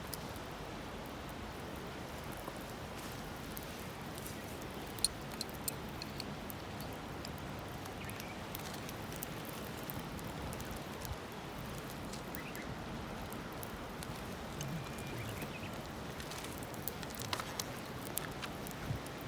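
Wood campfire burning: a steady hiss with scattered sharp crackles and pops from the firewood, a few louder pops about five seconds in and a cluster near the end.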